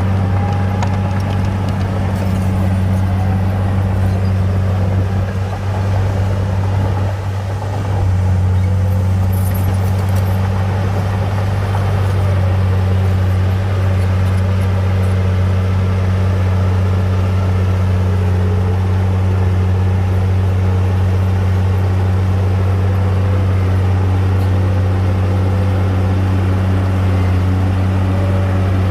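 Heavy diesel engine of earthmoving machinery running steadily with a strong low drone. It eases off briefly about six seconds in, then picks up again and holds steady.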